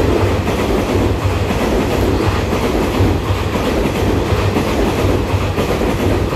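Taiwan Railway EMU3000 electric multiple unit running past the platform at speed: a steady, loud rush of wheels on rail and train noise that does not let up.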